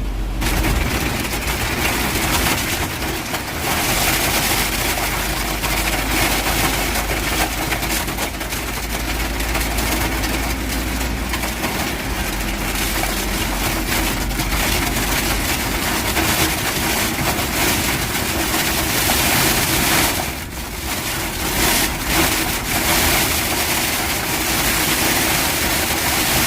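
Truck engine running steadily, with a constant rushing noise over it that dips briefly about twenty seconds in.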